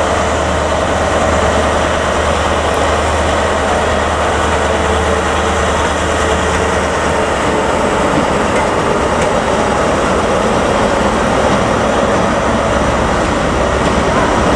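A train running: a loud, steady low drone under an even rumble.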